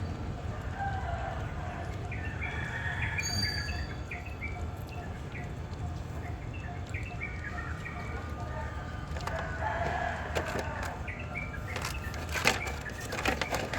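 Birds chirping and clucking over a low steady hum, with a sharp knock about twelve seconds in and a few clicks after it.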